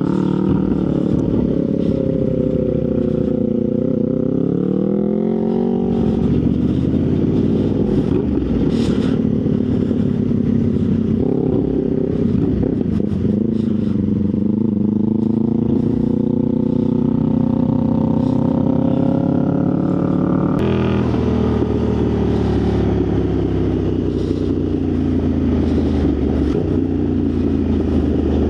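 Motorcycle engine running while being ridden, its pitch rising and falling with the throttle. About two-thirds of the way through the pitch drops suddenly and then eases down.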